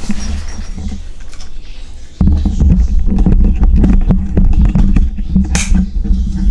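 Handling noise from the camera being picked up and repositioned: knocks and clicks, then from about two seconds in a loud, rough low rumble as the microphone is rubbed and moved.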